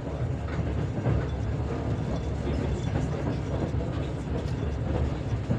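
Steady low rumble of a moving passenger train carriage's wheels running on the rails, heard from inside the carriage, with a few faint knocks.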